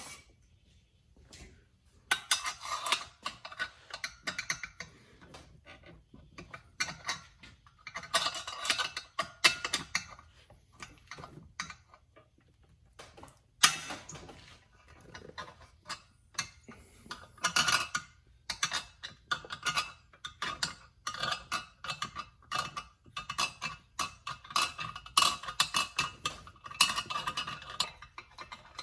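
Metal chainsaw parts and hand tools clinking and clicking in irregular clusters as the saw is worked on by hand, with one sharper knock about halfway through.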